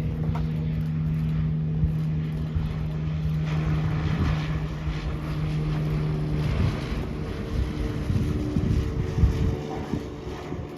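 An engine running steadily with a low hum, which changes pitch about six and a half seconds in, with wind buffeting the microphone and a rush of hiss in the middle.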